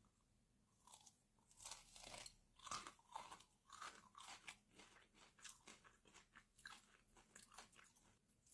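Faint close-up crunching and chewing: a chocolate with a crunchy Dubai-style pistachio-kataifi filling being bitten and eaten, in irregular crisp crunches that start about a second in.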